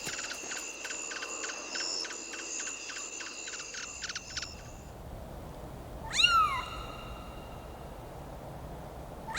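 A rapid high ticking trill, about four pulses a second, runs until nearly halfway and then stops. About six seconds in, a cat gives one loud meow that rises and then falls in pitch.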